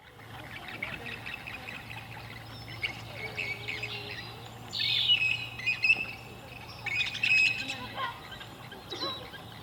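Several birds chirping and calling in quick overlapping notes, with louder bouts of calls about five and seven seconds in. A low steady hum runs underneath.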